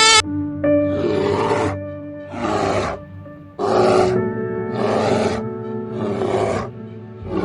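Background music with steady held notes, over an animal's repeated breathy roaring calls: about six, each under a second long and roughly a second and a quarter apart.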